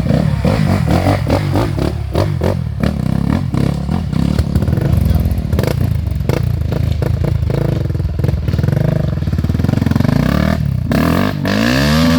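Off-road motorcycle engines revving unevenly, the pitch rising and falling, with a rev that climbs steeply near the end.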